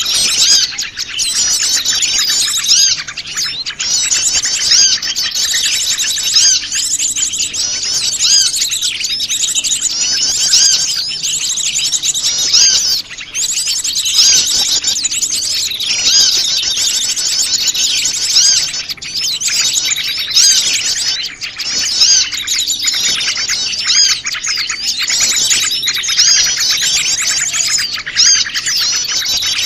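A busy chorus of many small wild birds chirping and twittering over one another without a break: a mixed small-bird lure call, played to draw wild small birds in close.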